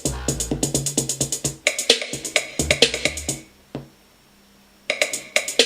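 Electronic pop music with a fast drum-machine beat and heavy bass, played through a Sansui T18 portable Bluetooth speaker on its third bass setting. The music drops out for about a second past the middle, then comes back.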